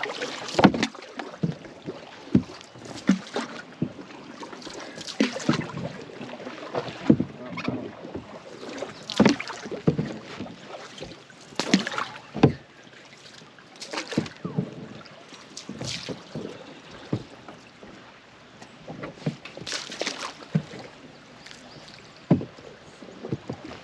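Canoe being paddled: irregular splashes of paddle strokes and sharp knocks of paddles against the canoe hull, about one a second.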